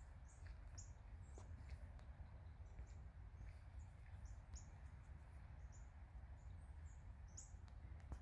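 Faint birds chirping: many short, high chirps scattered throughout, over a low steady rumble.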